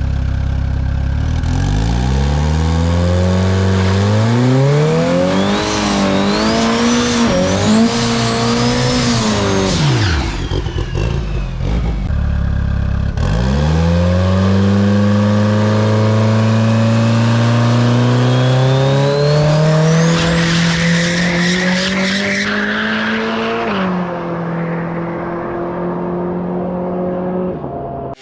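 Turbocharged drag car engine accelerating hard down the track, its pitch climbing in steps with a high rising whistle over it, then falling away about ten seconds in. After a break about thirteen seconds in, a second hard run climbs steadily with another rising whistle before dropping off after about twenty-four seconds.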